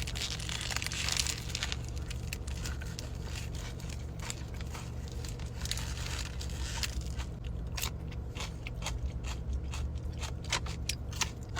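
Close-up eating and food-handling noises: a stretch of crinkling, like a paper wrapper, at the start, then scattered crunches and sharp clicks that come thicker in the second half, over a steady low hum.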